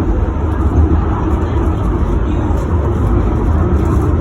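Tram running, a steady low rumble with no breaks.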